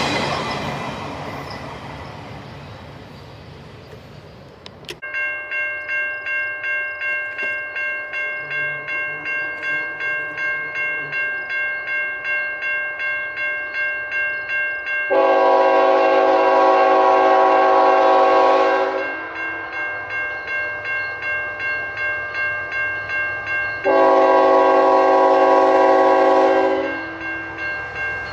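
A passing train's noise fading away, then a grade crossing bell ringing steadily about twice a second. Over the bell a locomotive air horn sounds two long multi-note blasts, about four and three seconds long, as a train approaches the crossing.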